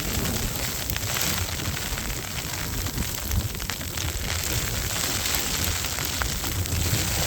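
Wind buffeting the microphone with a gusting low rumble, over a crackly hiss and the crunch of footsteps in deep snow.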